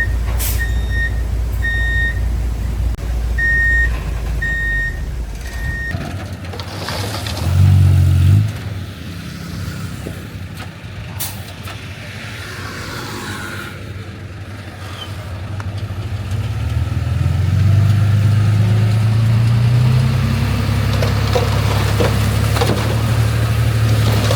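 Reversing alarm on heavy machinery beeping repeatedly over a diesel engine's rumble for the first six seconds. After that, a heavy diesel engine runs on its own, revving briefly about eight seconds in, then rising and holding a higher, louder pitch from about seventeen seconds on.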